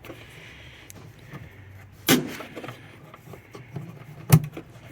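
Two sharp clunks about two seconds apart, the second louder, over a low steady hum: items and lids being handled while rummaging through a truck's storage compartment.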